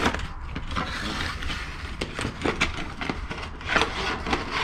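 Clicking and crackly rustling of small plastic parts from a plastic welding kit being handled, with a steady low hum underneath.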